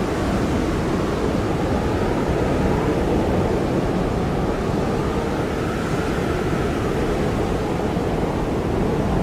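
Blizzard wind blowing steadily as a dense, low rushing noise, with faint wavering whistling tones above it.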